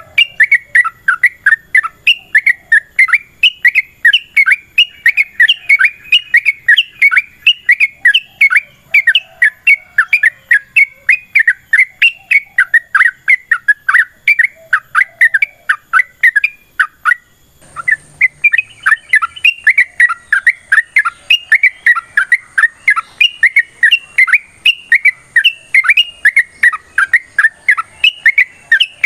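Yellow-vented bulbul (trucukan) singing a long, fast run of short chattering, whistled notes, about five a second. The run breaks off briefly about two-thirds of the way through, then resumes.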